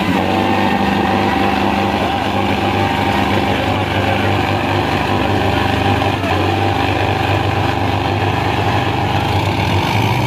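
A Sonalika tractor's diesel engine running with a steady low drone.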